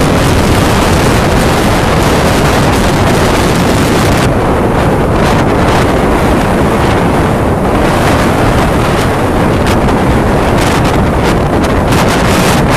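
Strong wind blowing across the microphone, a loud, steady rumbling rush, over the noise of storm waves.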